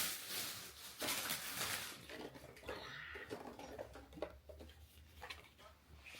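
Faint rustling for about two seconds, then scattered light taps and clicks.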